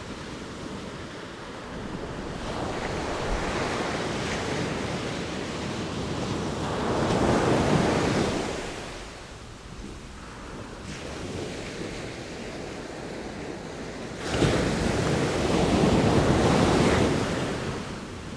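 Sea waves rolling in and breaking as surf, a steady wash that swells twice into louder surges. The second surge hits suddenly about two-thirds of the way through and then drains away.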